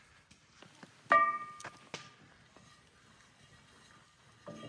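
A metal cooking utensil or pan struck once, giving a sharp ringing clang about a second in that dies away within half a second, followed by two lighter clicks.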